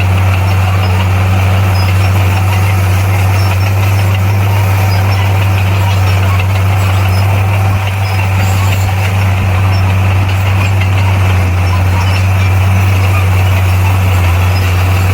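Heavy earthmoving machine's diesel engine running steadily with a constant low hum, no revving or change in load.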